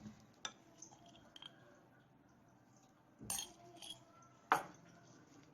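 A few scattered clinks and knocks of kitchen utensils and dishes, the loudest about four and a half seconds in.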